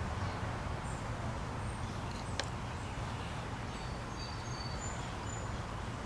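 Birds chirping in short high calls over a steady low outdoor rumble, with one sharp click about two and a half seconds in.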